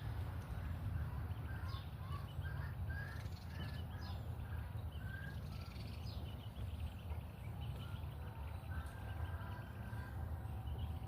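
Birds chirping and calling outdoors, many short quick notes, over a steady low rumble.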